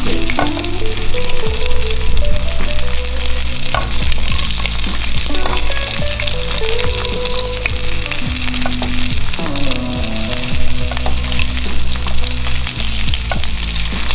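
Sabah fish pan-frying in hot oil on its belly side: a steady, dense sizzle and crackle.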